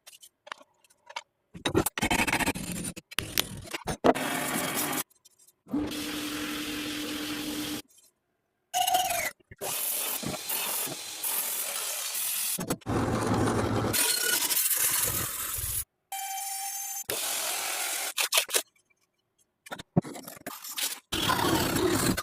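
Short bursts of metalworking sounds cut one after another, with scraping and rubbing on the rusty steel of a cleaver and power tools running, one with a steady motor hum. Each clip starts and stops abruptly.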